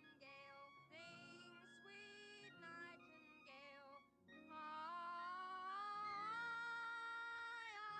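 A woman singing a song off-key, badly enough to call for earplugs, over a light instrumental accompaniment. About halfway through she takes a long, louder high note that climbs in pitch and breaks off near the end.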